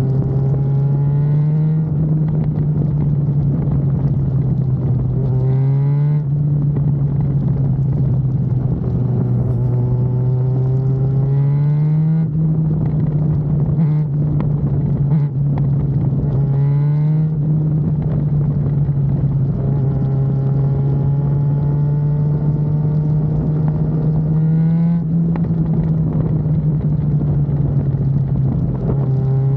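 Yamaha FZ6R's 600 cc inline-four engine running under way, its pitch climbing and then dropping back about every five to six seconds.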